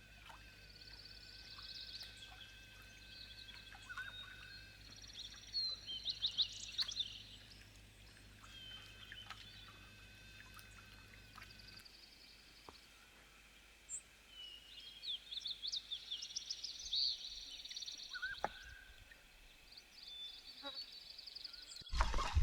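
Wild songbirds singing and chirping, short high twittering phrases and trills coming and going over a faint steady background, with a faint low hum that stops about halfway. A louder noise begins just at the end.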